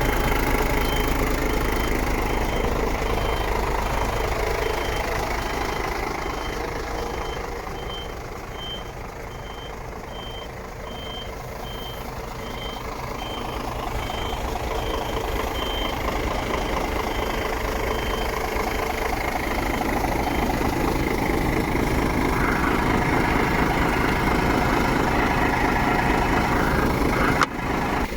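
Scania R124.360 truck's diesel engine running, with a reversing alarm giving a steady string of short beeps. The engine noise dips and then comes back up, and the beeping stops after about twenty seconds. A sudden click comes near the end.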